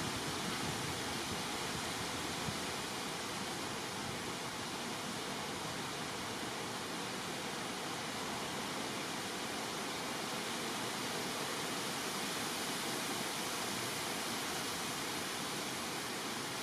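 Steady, unchanging hiss of noise with no distinct events.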